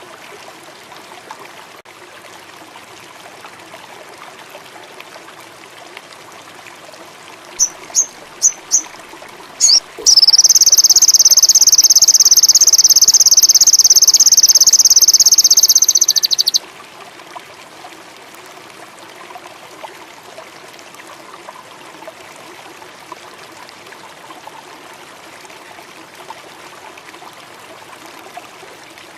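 Sogon songbird giving a few short, high chirps, then a loud, high, continuous trill held for about six seconds that cuts off, over the steady sound of running water.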